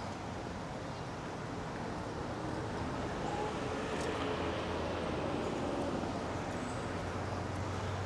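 Steady vehicle noise: a low hum under an even rushing haze, with no sharp events.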